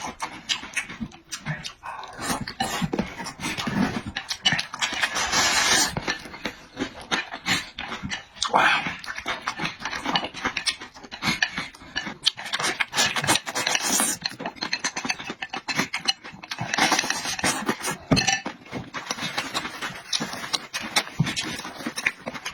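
Close-miked eating sounds: wet chewing and smacking clicks, with several noisy stretches a second or two long of slurping and heavy breathing.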